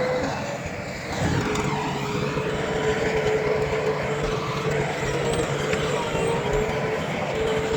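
Heavy earthmoving machinery running, its diesel engine noise steady, with a steady whine held over it.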